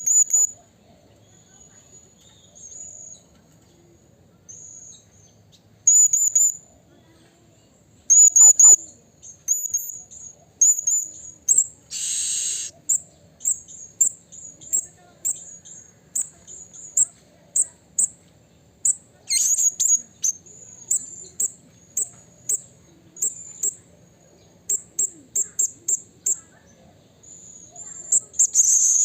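Blue-crowned hanging parrot (serindit) calling: short, sharp, very high-pitched notes, spaced out at first and coming quicker and closer together through the second half, with one harsh rasping call about twelve seconds in.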